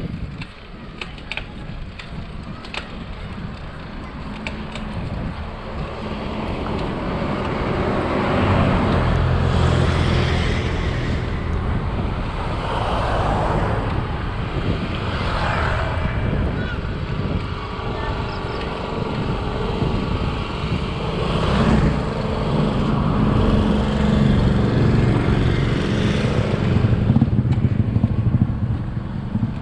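Road traffic: motor vehicle engines passing close by, swelling louder about a third of the way in and again past two-thirds.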